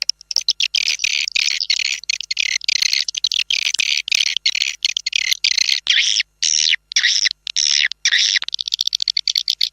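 Swiftlet calling sound for attracting swiftlets to a bird house: a dense stream of high chirps and twitters with rapid clicks. After about six seconds it breaks into separate chirps, two or three a second, and near the end a fast buzzing trill comes in.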